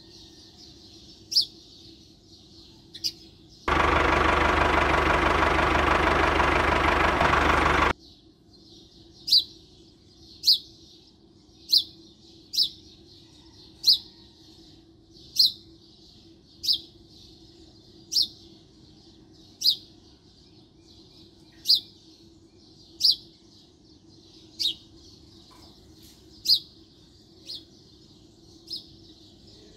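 A bird chirping, single short high chirps repeated about every second, over a faint steady hum. A loud dense sound cuts in abruptly about four seconds in, lasts about four seconds and stops just as suddenly.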